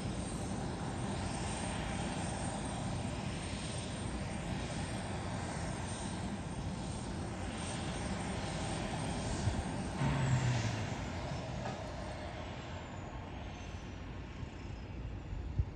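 Airliner engine noise at an airport, a steady rush. About ten seconds in there is a low thump, then a high whine that slowly falls in pitch.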